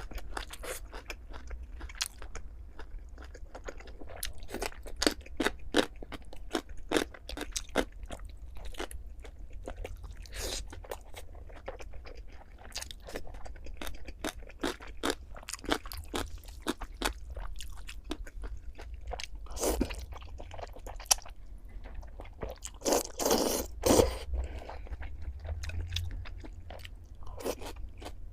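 Close-miked eating: a person biting and chewing food, with many crisp, irregular crunches and a louder run of crunching near the end.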